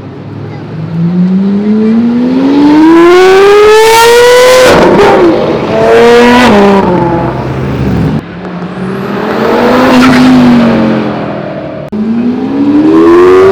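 High-performance car engine accelerating hard. Its pitch climbs steeply and then drops at each upshift, with several hard pulls in a row and a fresh one starting abruptly near the end.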